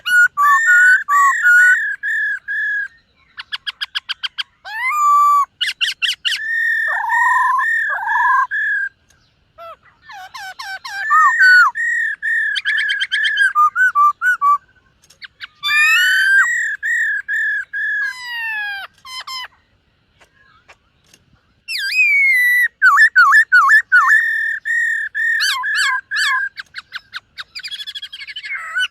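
Black-throated laughingthrush singing loud, varied whistled song: runs of repeated looping notes, fast trills and gliding whistles in phrases a few seconds long, with a longer pause about two-thirds of the way through.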